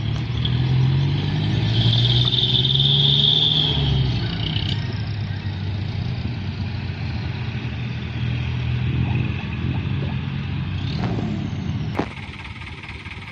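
Diesel engine of a heavily loaded Hino Dutro dump truck running under load, its pitch rising slightly in the first few seconds and then settling, with a high whine for about three seconds near the start. The sound drops abruptly near the end.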